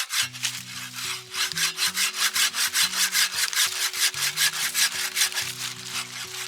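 Saw cutting through wood in quick, even strokes, about five a second, over background music with a slow bass line.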